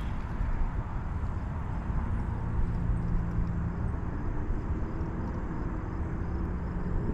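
Steady low rumble of outdoor riverside ambience, with a faint steady hum underneath from about two seconds in.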